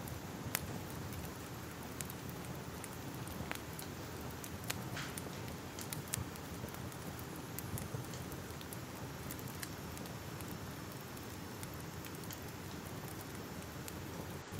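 Crackling fire: a steady soft hiss with irregular sharp pops and crackles scattered through it.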